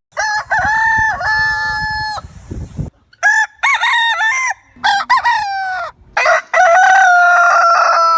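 Hen calling: a string of loud, pitched squawking calls, short ones in the middle, then a long drawn-out call that slowly falls in pitch near the end.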